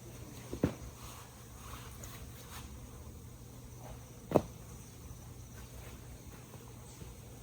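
Two sharp knocks about four seconds apart, the second the louder, with small ticks and rustles between them over a faint steady low hum.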